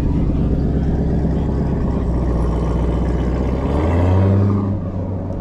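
Car engine rumbling at low revs. About four seconds in, an engine note rises and swells louder as a car pulls up close, then eases off.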